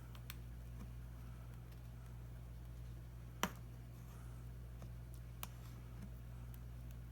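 A few sharp clicks of a repair tool against the tablet's glass and frame while the touchscreen is being pried off, the loudest about three and a half seconds in, over a steady low electrical hum.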